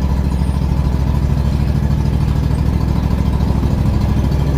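John Deere X300 lawn tractor engine running steadily at an even speed, shortly after a cold start on the choke.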